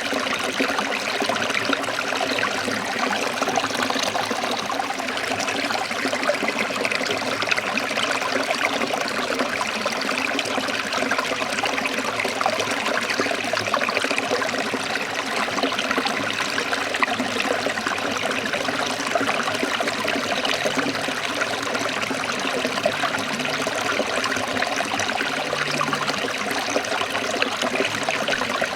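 Forest stream trickling and flowing steadily.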